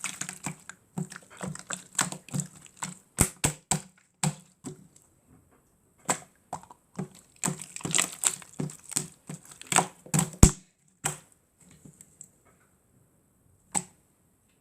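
Slime being squeezed and pressed by hand, making clusters of sharp crackling pops and clicks. There are pauses about five seconds in and again near the end.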